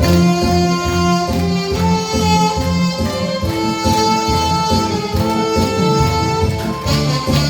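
Saxophones playing a Korean trot melody in long held notes over a backing track with a steady bass beat and string accompaniment.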